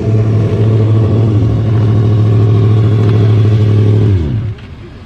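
A hot rod's engine running loudly and steadily, then switched off about four seconds in, its pitch sliding down as it winds to a stop.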